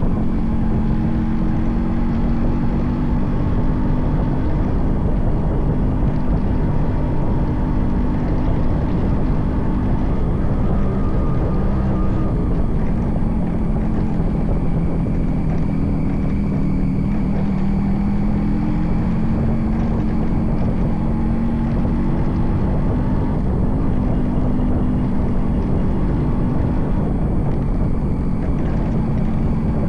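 Yamaha RX 100's 98.2cc air-cooled two-stroke engine running steadily under way, its pitch rising and falling gently as the throttle and road speed change.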